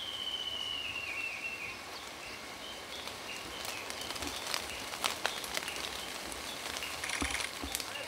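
Birds calling in woodland: a whistled song falling in pitch over the first two seconds, then scattered short whistled notes and a few sharp clicks. About seven seconds in, a loud, harsh, grating call, the 'gii-gii' of a great spotted woodpecker.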